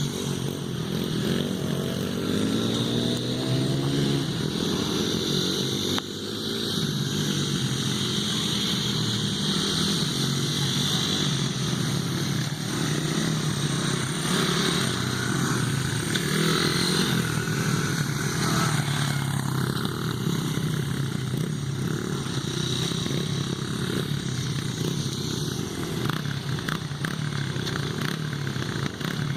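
Dirt bike engines running and revving as the bikes ride, the pitch sweeping up and down, then holding fairly steady.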